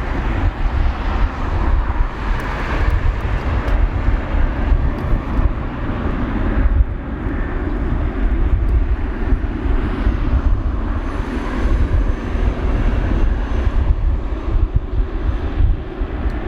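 Jet airliner engines running with a steady rumble and hiss.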